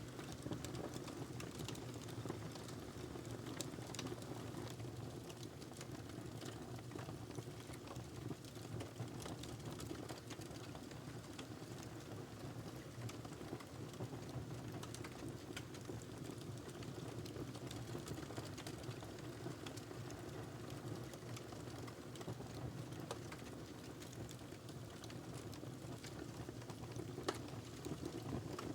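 Wood fire burning in a fireplace: a steady low rumble of flames with many small crackles from the burning logs, and one louder pop near the end.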